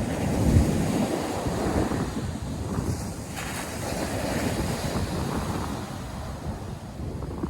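Ocean surf breaking and washing ashore, with wind buffeting the microphone and a strong low gust about half a second in.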